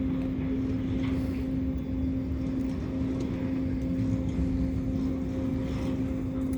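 A steady low engine drone: a constant hum with an even rumble underneath, unchanging throughout.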